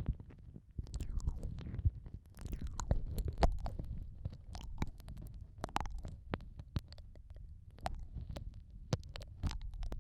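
Close-up ASMR ear-eating mouth sounds: wet lip and tongue clicks, smacks and sucking pops in irregular succession, over a low rumbling handling noise from the ear-shaped microphone.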